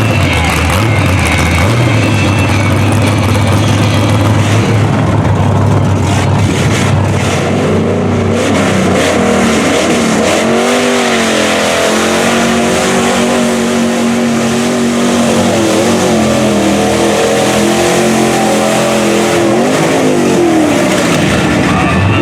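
Mud bog truck's engine running hard at high revs, its pitch rising and falling repeatedly as the throttle is worked.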